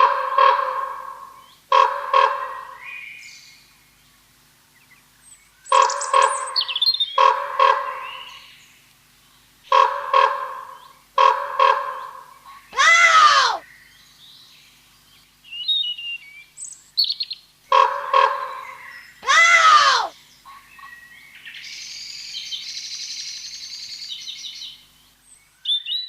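Bird-like calls: clusters of short, same-pitched repeated notes, broken twice by a loud swooping call, with a hissing, rasping passage near the end.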